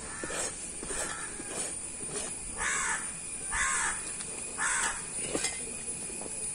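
A bird calling three times, about a second apart, with faint scattered taps in between.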